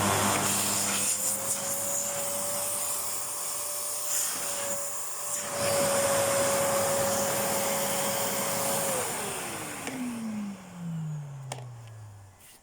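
Vacuum cleaner running loudly with a steady motor whine, then switched off about nine seconds in, its whine falling in pitch and fading as the motor spins down.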